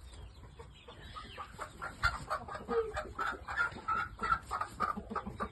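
Chickens clucking: a run of short, repeated clucks, several a second, starting after a quiet second or so and growing busier near the middle.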